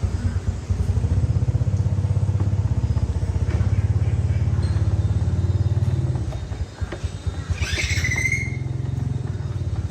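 Small motorbike engine running with a fast, even beat, easing off briefly about two-thirds of the way in before picking up again.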